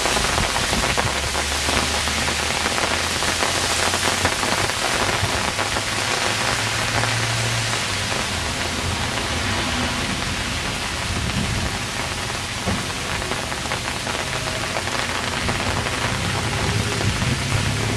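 Hail falling heavily and steadily, a dense hiss of countless small ice impacts.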